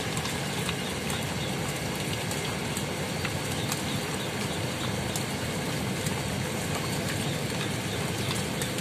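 Steady rain falling on the water, an even hiss with faint scattered ticks.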